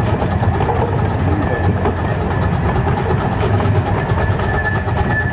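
Miniature railway train running, heard from on board: a steady low rumble of wheels on the track, with a thin high squeal that comes and goes.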